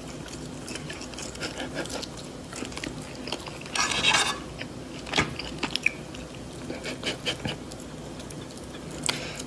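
Chewing and biting at close range as a cat and a man eat off the same fork, with many short clicks of the metal fork and a brief louder scrape about four seconds in as the fork works food on a plate.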